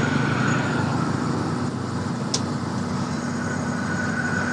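Vehicle engine running steadily with a low hum and a faint high whine, and one sharp click about two seconds in.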